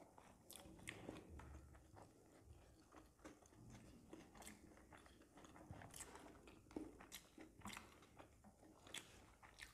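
Faint chewing and biting of momos (steamed dumplings), with small scattered mouth clicks.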